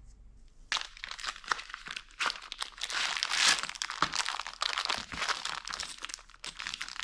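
Packaging being crinkled and handled by hand, a dense irregular crackle with many sharp clicks that starts about a second in.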